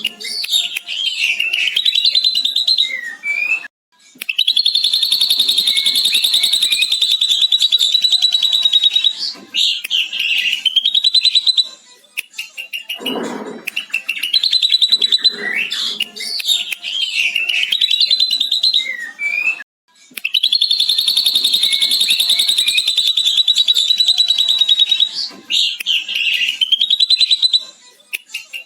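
Ashy drongo singing, its song filled with mimicry of a lovebird's long chattering trill. Long high trills of about five seconds alternate with shorter, varied phrases, and the sequence repeats about every sixteen seconds.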